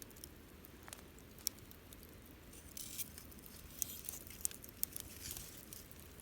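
Wood campfire crackling: scattered sharp pops and snaps over a low steady background, with brief hissing flares twice.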